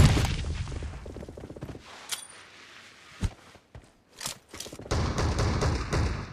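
Video-game gunfire. A loud shot at the start runs into a burst of rapid automatic fire, followed by a few single shots and then another burst of automatic fire about five seconds in.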